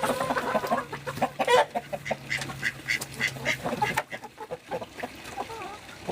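Backyard chickens clucking and squawking with many short, repeated calls, including a quick run of about four calls a second around the middle. Under them a low steady hum stops abruptly about four seconds in.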